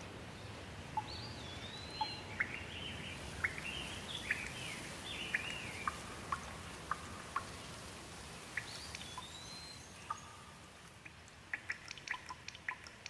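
Steady rain with a songbird calling over it in a run of quick chirping, gliding notes, then a shorter call a few seconds later. Near the end, close drips start tapping irregularly.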